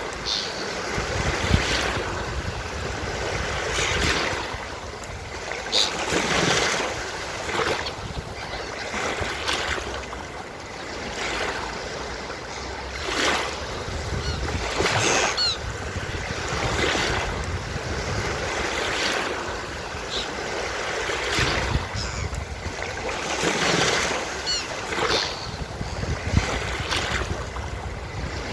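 Beach surf: waves breaking and washing in, swelling every couple of seconds, with seagulls giving short calls a few times.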